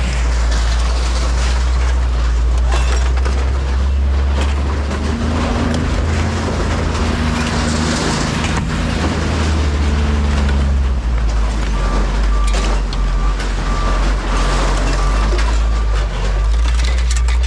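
Vehicle engine running with a steady low rumble and rattling, with a faint, evenly repeated beep in the second half.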